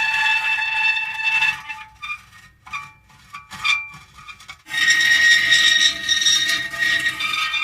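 Metal creaking with long, sustained high-pitched squealing tones. Near the middle it breaks off into a few seconds of quieter, scattered short squeaks, then a long steady creak starts again.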